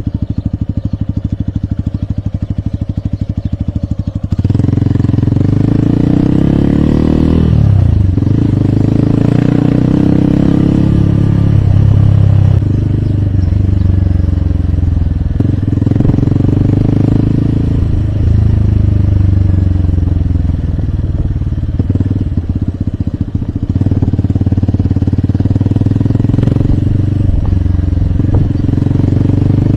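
Hero Hunk motorcycle's single-cylinder engine running steadily at low revs, then pulling away about four seconds in and revving up and dropping back several times as it shifts through the gears while riding.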